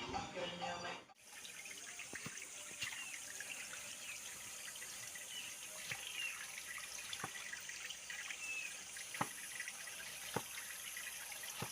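Running water, like a tap left on, with a few sharp knocks and faint short chirps over it. It follows about a second of music that cuts off.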